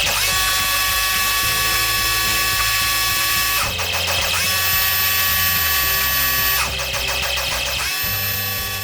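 Electric high-pressure washer running in three bursts, its motor whining up to speed each time the trigger is pulled and cutting off when it is released, with the hiss of the water jet on an aluminium motorcycle crankcase.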